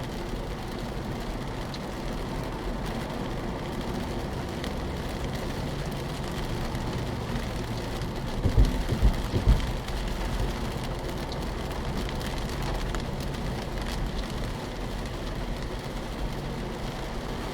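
Car cabin sound while driving in heavy rain: steady noise of rain on the car and tyres on the wet road, over the engine. Three or four low thumps come in quick succession about halfway through.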